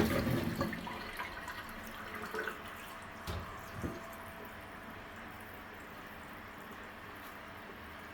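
Tap water running steadily into a pot in a kitchen sink, after a loud knock at the very start and a few small knocks.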